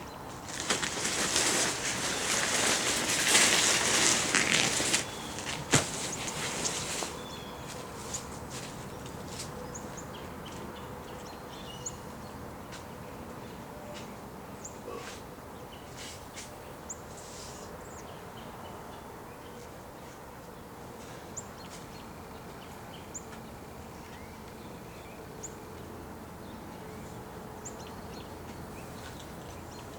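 Loud rustling and dragging of a car cover being pulled off and bunched up for about seven seconds, with a sharp knock about six seconds in. Then it goes quieter, with scattered light clicks and faint short high chirps.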